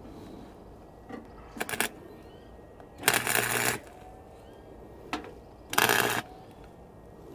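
Wire-feed welder laying short tack welds on the steel extension for an oil pan: bursts of crackling arc, a brief one about a second and a half in, then two longer ones under a second each, about two and a half seconds apart, each with a steady buzz.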